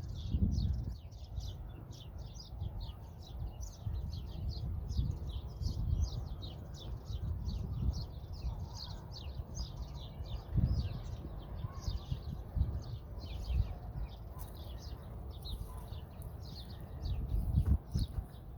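Birds chirping continuously: a dense run of quick, high chirps, several a second, over an uneven low rumble.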